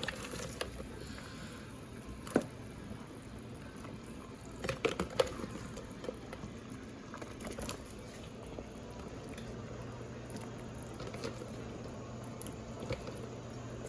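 Hot cooking liquid being scooped out of a pot with a few scattered clinks and splashes over faint bubbling and sloshing. A low steady hum comes in about two-thirds of the way through.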